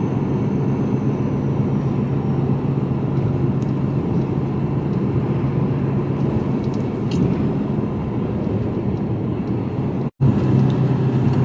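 Mercedes-Benz Actros lorry heard from inside the cab while driving: a steady diesel engine hum with road and tyre noise. The sound drops out completely for an instant about ten seconds in.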